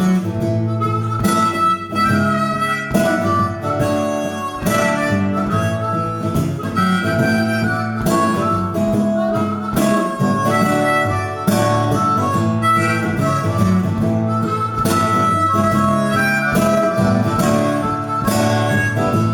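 Harmonica solo over strummed guitar, an instrumental break between sung verses of a live blues-rock song.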